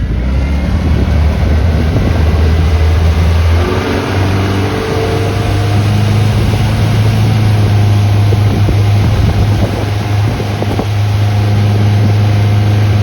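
Tow boat's motor running steadily under way, its pitch stepping up about four seconds in as it speeds up, with wind noise on the microphone.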